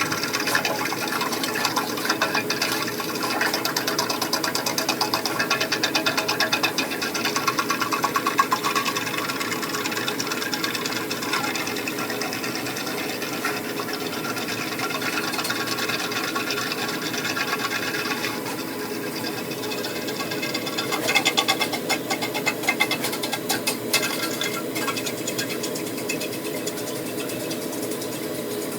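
Electric flexible-shaft drain cleaner running, spinning its wire cable inside a blocked drain pipe with a steady motor whir and fast rattling. The rattling grows louder for a few seconds in the second half.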